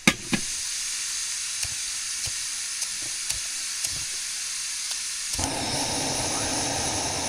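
Ground-beef burger balls sizzling in a hot oiled pan: a steady hiss with scattered small pops, after a sharp clack right at the start. About five seconds in the sizzle suddenly grows fuller and lower.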